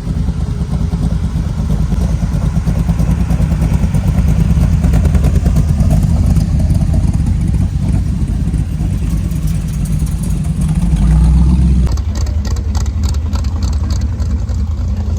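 A vehicle engine running loudly close by, a steady low rumble that builds gently to a peak about eleven seconds in. The sound changes abruptly about twelve seconds in.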